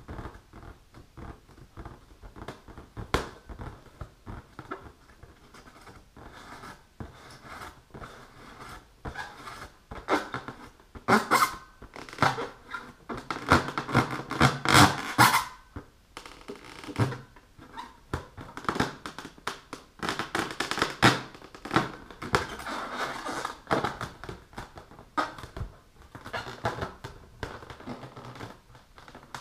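Long fingernails scratching, rubbing and tapping on an inflated rubber balloon: irregular bursts of scratchy rubbing mixed with short clicks, busiest in the middle.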